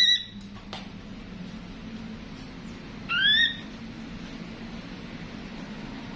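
Ashy drongo calling: a rising whistled note right at the start and another about three seconds in, with a short click between them. A faint steady low hum runs underneath.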